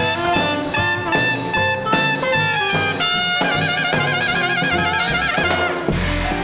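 Small-group swing band playing live, a trumpet taking the lead over piano, bass and drums with quick phrases. From about three and a half seconds in the trumpet holds a wavering note, and a full-band low hit lands about six seconds in.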